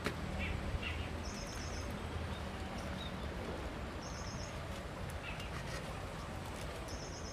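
A bird calls a short, rapid, high-pitched trill about three times, roughly every two and a half seconds, with a few softer chirps between. Under it runs a steady low outdoor background hum.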